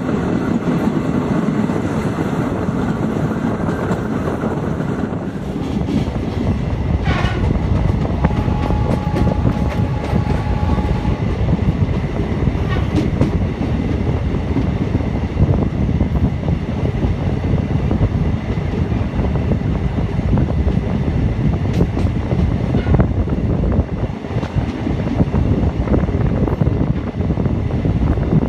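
DEMU (diesel-electric multiple unit) train running at speed, heard from an open doorway of a coach: a steady rumble of wheels on rail with scattered clacks. A horn sounds for a couple of seconds about eight seconds in.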